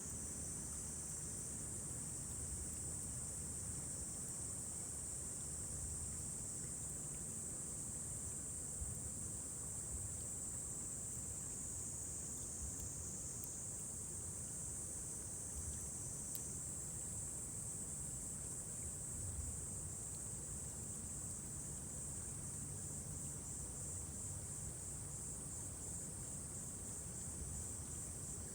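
Steady high-pitched chorus of crickets over a low rumble, with a couple of faint crackles from a wood campfire.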